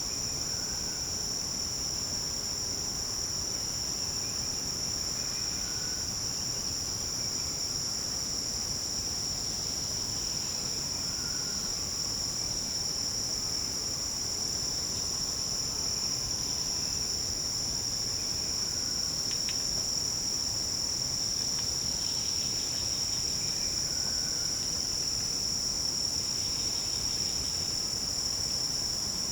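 A steady, unbroken chorus of forest insects shrilling at several high pitches at once. A few faint, short calls sound lower down now and then.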